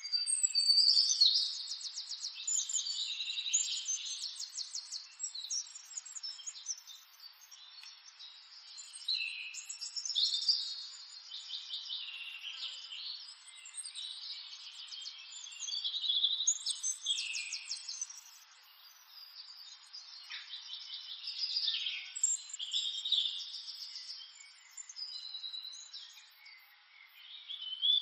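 Small birds singing: phrases of rapid chirping trills and short falling notes, recurring every few seconds.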